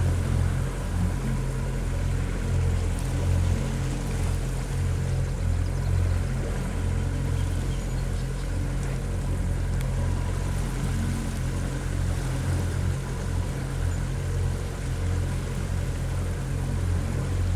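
Motorboat engine running at a steady low speed, a constant low drone that does not rise or fall.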